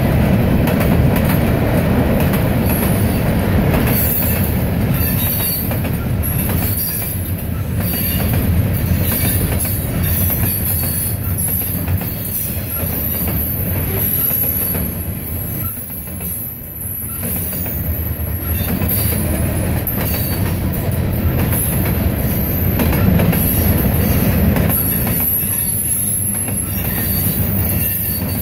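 CSX manifest freight train's boxcars and covered hoppers rolling past: a steady rumble of steel wheels on rail with a high-pitched wheel squeal running over it, dipping briefly about halfway through.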